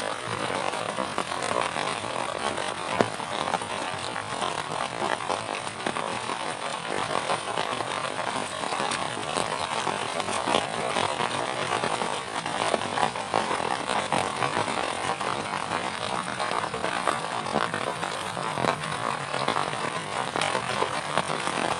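Heavy rain falling steadily, a dense even hiss dotted with the sharp ticks of individual drops striking.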